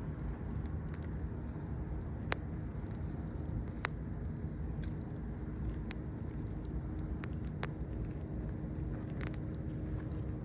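Campfire crackling, with scattered sharp pops, about one every second or so, over a steady low rush.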